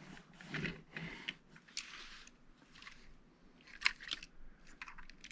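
Lego bricks being handled and pressed together: a run of small plastic clicks, rattles and scrapes, with one sharper click about four seconds in.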